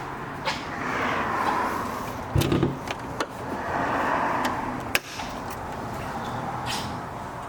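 Passing road traffic, swelling twice, with a cluster of low thumps about two and a half seconds in and a few sharp clicks.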